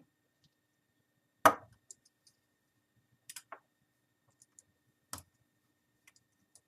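A few scattered clicks and light knocks from small Phillips screws and a screwdriver being handled on a laptop's screen frame. The sharpest knock comes about a second and a half in.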